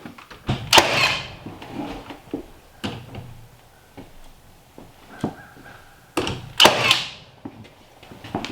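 Construction work on a wooden wall: two loud rasping bursts, each about a second long, one near the start and one about six seconds in, with scattered knocks and clicks of tools and lumber between them.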